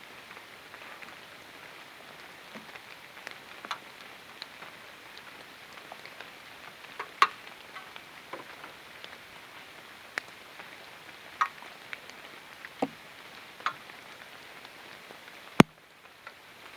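Light rain: a steady soft hiss with scattered sharp taps of drops falling from wet leaves, one every second or two, the sharpest one near the end.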